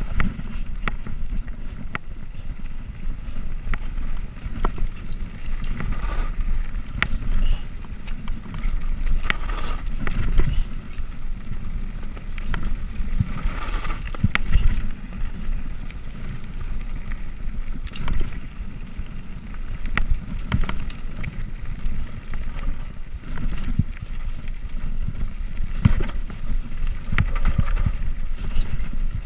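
Wind rumbling on the microphone of a moving bicycle, with scattered light ticks and rattles throughout.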